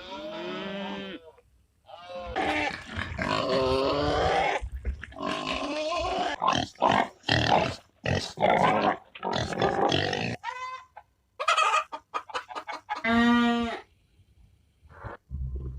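Farm animals calling: a run of separate pitched calls and quick short call trains, one after another with brief pauses between them.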